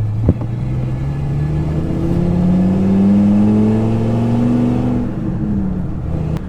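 Service truck's engine accelerating, its pitch climbing steadily for a few seconds and then falling back near the end.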